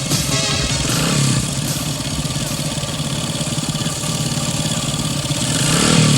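An engine idling steadily with a fast, even low pulse.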